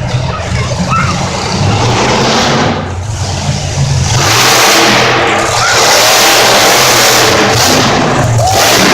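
Monster truck engine revving hard in a loud, continuous roar, dipping briefly and then swelling louder about four seconds in.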